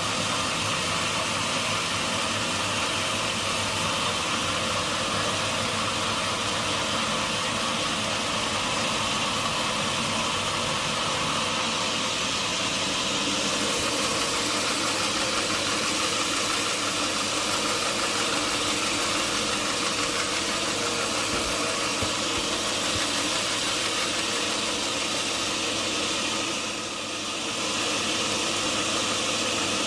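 Sawmill machinery running steadily, a continuous motor and engine hum with a slight dip in level near the end.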